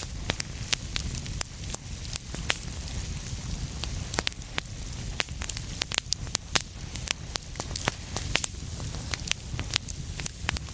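Wood fire in a fireplace crackling, with many irregular sharp pops over a steady low rumble and hiss.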